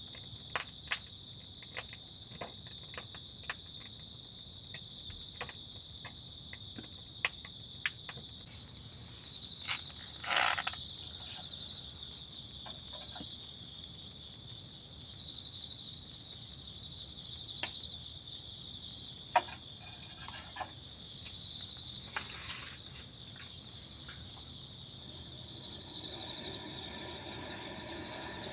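Crickets chirping in a steady, high-pitched chorus, with scattered sharp taps and clicks.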